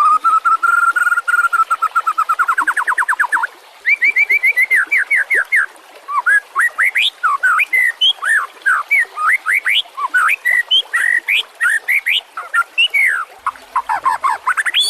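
White-rumped shama (murai batu) singing: a long held whistle that breaks into a fast trill, then, after a short pause, a rapid run of varied whistled notes sweeping up and down, with thin high chips above them.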